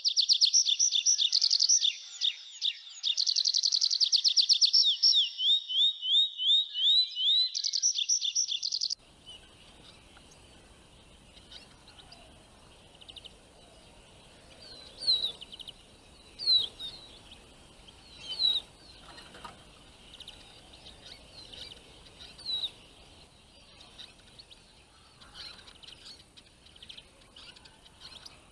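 A small songbird singing loudly in fast trills and runs of repeated falling notes. This stops abruptly about nine seconds in and gives way to quiet outdoor background noise with occasional short, falling bird chirps.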